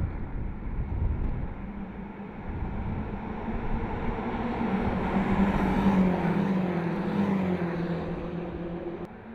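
Car engine running as the vehicle passes, its note swelling to a peak about six seconds in and then fading and dropping slightly in pitch, before the sound cuts off abruptly near the end.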